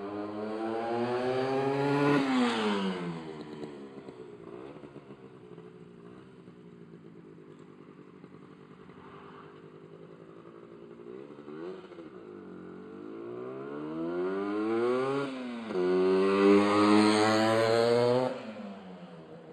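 1993 Honda NS125R's single-cylinder two-stroke engine revved up twice and dropped back to a steady idle in between, with a short blip before the second, longer and louder rev.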